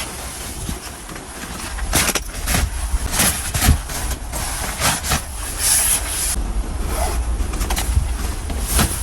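Strong wind in a snowstorm, a steady deep rumble with irregular gusting rushes.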